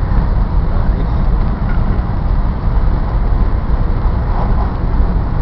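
Steady low rumble and rushing noise inside the passenger cabin of a Taiwan High Speed Rail 700T bullet train running at high speed.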